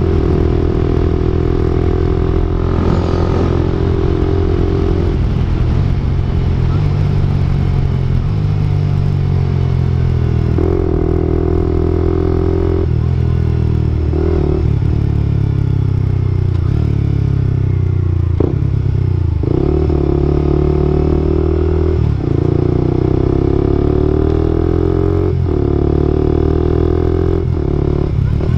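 Suzuki GSX-R125/GSX-S125 single-cylinder four-stroke running through an Akrapovic-style aftermarket exhaust while being ridden. The engine note climbs and drops in steps, with short breaks at the gear changes.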